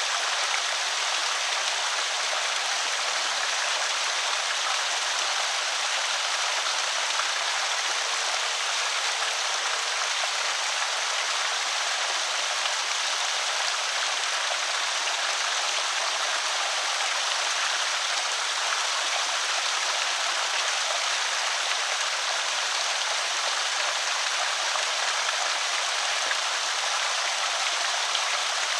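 Water spilling and trickling over a small creek spillway, a steady splashing rush with no breaks. Two faint low hums show briefly early on, one and then the other.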